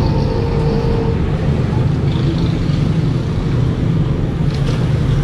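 A steady low mechanical hum, running evenly throughout.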